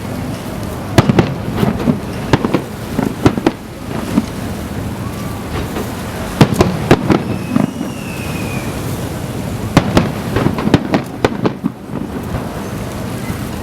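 Aerial fireworks display: shell bursts going off as sharp bangs in quick clusters, about a second in, midway and again near the end, over a steady low rumble of echoing reports.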